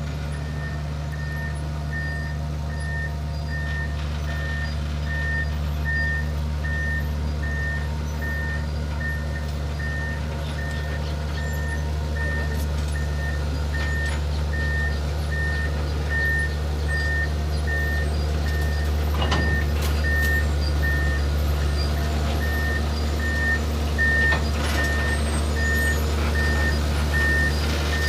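Kirow railway crane running on its diesel engine, a steady low drone, with its warning beeper sounding short beeps about once a second. Two brief metal knocks come in the second half.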